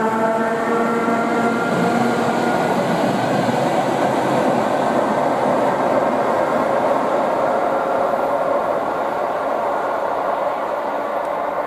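ER2 electric multiple unit passing at speed: a pitched whine that sinks slightly and dies away in the first couple of seconds, then a steady rush of wheel and rail noise that slowly eases toward the end.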